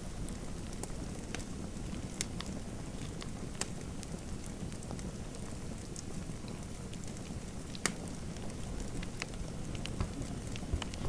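Wood fire crackling in a fireplace: a steady low rumble with scattered, irregular sharp pops, a louder one about eight seconds in.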